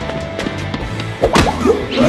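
Background music with animated fight sound effects: a single hard punch impact about a second and a half in.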